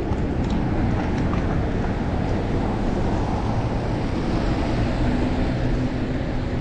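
Steady wind rush on the action camera's microphone from riding a bicycle, with street noise underneath and a few faint clicks about half a second in.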